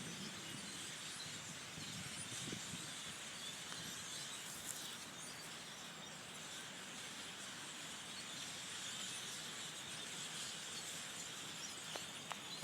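A large flock of blackbirds chattering and calling together, a faint steady din.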